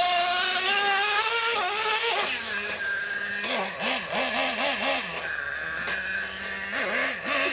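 Small nitro RC truck engine revving: a high, buzzing whine held and climbing slightly for about two seconds, dropping back, then a quick run of throttle blips about four a second, settling to a steady lower idle with a couple more blips near the end.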